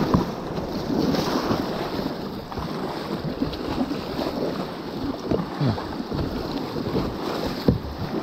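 River rapids rushing and splashing against a kayak's hull as it rides through whitewater, with many short slaps and splashes over a steady roar of water and wind buffeting the microphone.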